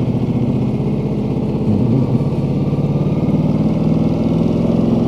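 Ducati Multistrada 1200 Enduro's V-twin engine running at low revs, its pitch stepping up a little about two seconds in.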